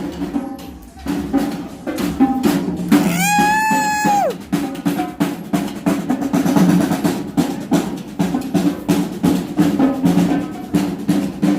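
Slot machine bonus-round music: rapid, dense drumming over a steady low tone. About three seconds in, a bright held tone sounds for about a second and slides down as it ends.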